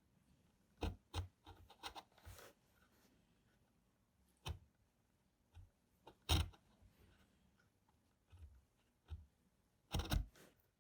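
Wooden pieces being handled: scattered light knocks and clicks, with a short rub about two seconds in. A sharper knock comes about six seconds in, and a quick double knock near the end.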